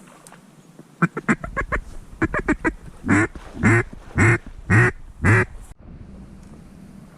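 Mallard hen-style quacking: a quick run of short chattering notes, then five loud, evenly spaced quacks that stop abruptly.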